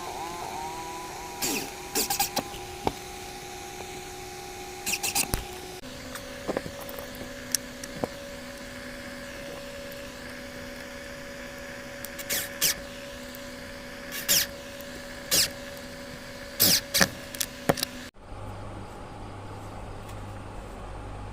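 Homemade microwave-transformer spot welder firing a series of short, sharp crackling zaps, about a dozen, in clusters, over a steady background tone.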